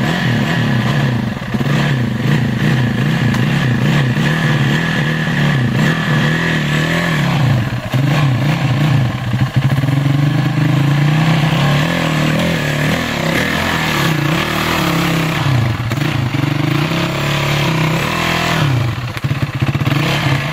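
A dirt bike's engine is ridden hard, revving up and down over and over. Near the end it drops to a lower, choppy idle.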